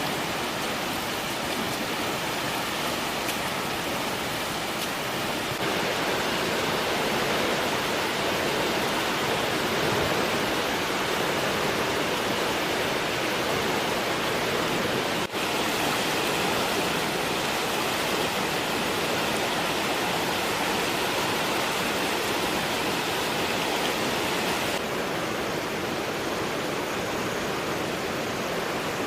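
Steady rush of water, a dense even hiss, changing abruptly in tone about 6, 15 and 25 seconds in.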